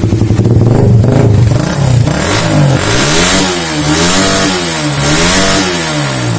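Suzuki Satria FU 150's single-cylinder four-stroke engine running through a Kawahara full-black aftermarket exhaust: steady idle, then revved up and down three times from about two seconds in.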